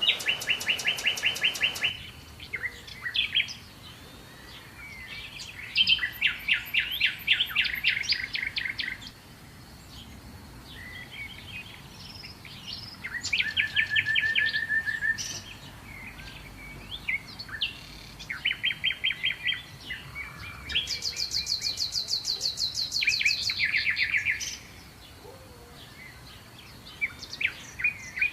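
Songbirds singing in repeated bursts of rapid, high chirping trills, each lasting a second or two with short pauses between. Some trills are higher and thinner, over a faint steady outdoor background.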